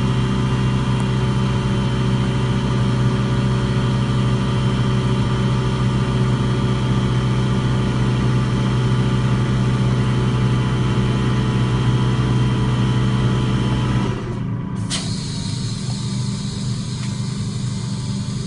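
A steady-running engine that drops away about fourteen seconds in, leaving a quieter hum, with a sharp click a second later.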